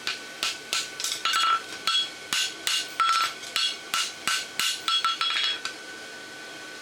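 Steel hammer striking on a blacksmith's anvil in a quick run of ringing blows, about three a second, which stop about six seconds in; a steady faint hum runs underneath.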